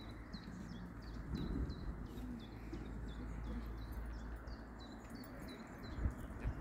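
A small bird chirping repeatedly, short high falling calls about two a second, over a low background rumble.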